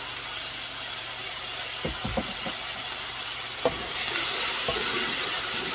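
Onion and hosta leaves sizzling as they fry in oil in a pan, with a few soft knocks. The sizzle grows a little louder about four seconds in.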